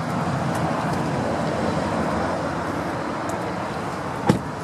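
Road traffic rush that swells a little and eases off, with one sharp knock near the end.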